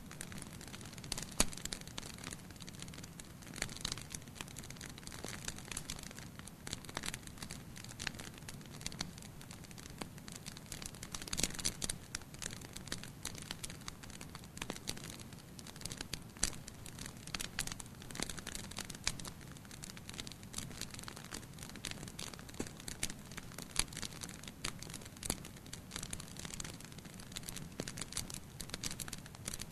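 Wood fire burning in a fireplace: a soft steady rumble of flames with irregular crackles and pops throughout.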